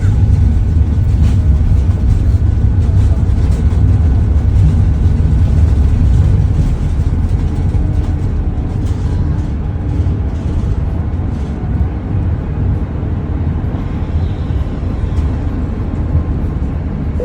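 Airbus A330 airliner's jet engines at takeoff power: a loud, deep, steady rumble that eases gradually from about seven seconds in.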